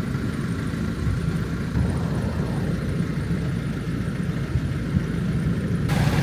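Small boat's engine running steadily with a low drone. Near the end a louder hiss of wind or water noise comes in suddenly.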